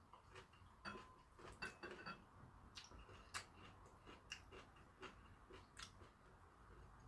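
Faint eating sounds: a person chewing a mouthful of food, with irregular soft clicks and smacks of the mouth and an occasional light tap of a spoon or chopsticks on a bowl.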